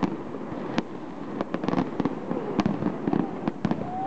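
Fireworks display: an irregular run of sharp bangs and crackles, some coming in quick clusters, over a low steady rumble.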